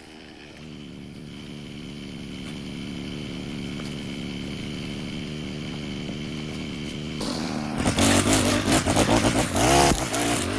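Small gasoline engine of a yard power tool running steadily and slowly growing louder, then revving up much louder about seven seconds in.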